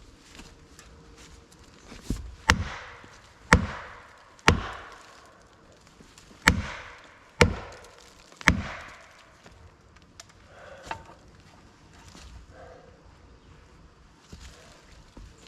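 Six heavy hammer blows driving a felling wedge into a pine's cut, in two groups of three about a second apart, each ringing out briefly; the wedging is tipping the tree toward its fall.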